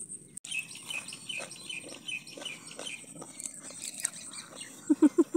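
Small birds chirping over and over, short high notes about two to three a second, with three short, louder low sounds in quick succession near the end.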